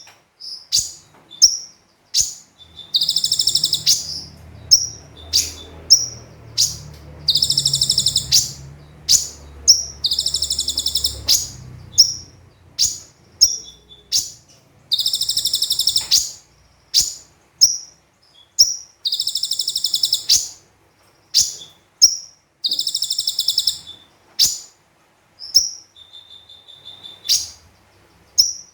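Olive-backed sunbird (konin) singing: loud, rapid, high buzzy trills about a second long repeated every few seconds, with short sharp chirps between them.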